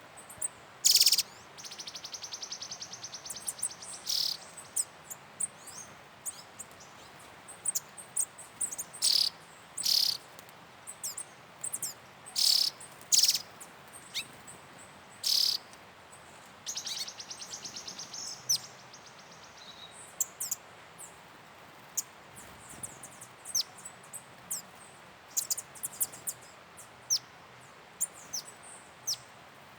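Wild birds calling: many short, sharp, high chirps at irregular intervals, with a long, fast buzzy trill about two seconds in and another about seventeen seconds in.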